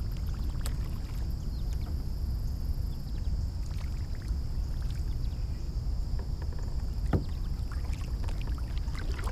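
Steady low rumble of wind and water noise around a sit-on-top fishing kayak on open water, with a couple of faint light knocks.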